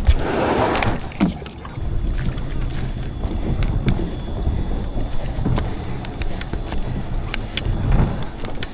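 Kayak paddling: a paddle blade splashes through the water near the start, then scattered knocks of the paddle against the plastic hull over steady wind rumble on the microphone.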